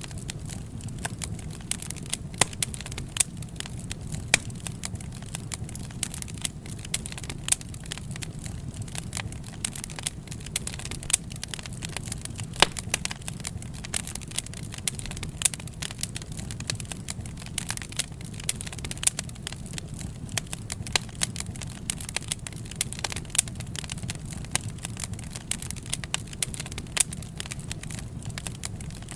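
Wood fire burning, with frequent irregular crackles and sharp pops over a low, steady rumble of the flames.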